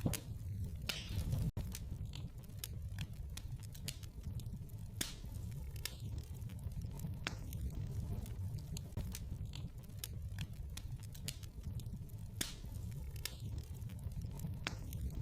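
Wood fire crackling in a fireplace: irregular sharp pops and snaps over a low, steady rumble of burning logs, with a momentary dropout about a second and a half in.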